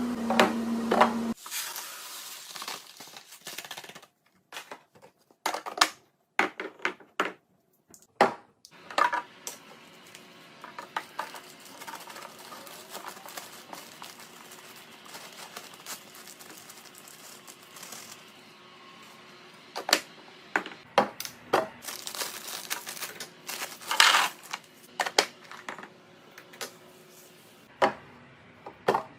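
Packaging and containers being handled during a fridge restock: plastic crinkling, with irregular clicks, taps and light clatter as items are set down and lids snap shut.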